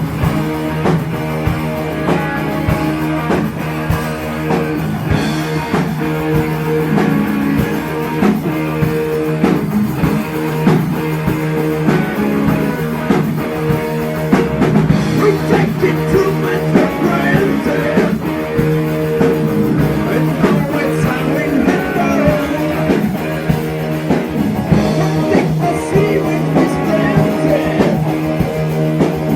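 Heavy metal band playing: distorted electric guitars and bass over a held low note, driven by a drum kit.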